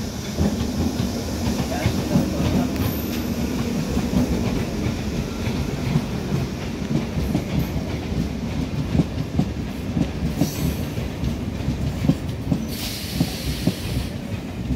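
Multiple-unit local passenger train passing close by, its wheels clattering rapidly and continuously over the rail joints. A low drone runs under the clatter for the first few seconds, and two short hisses come near the end.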